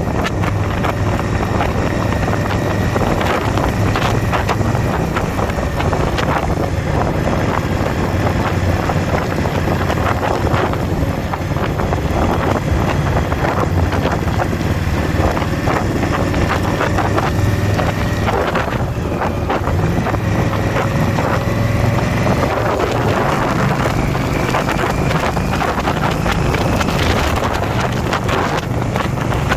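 Motorcycle riding at steady road speed: a continuous engine drone with wind buffeting the microphone.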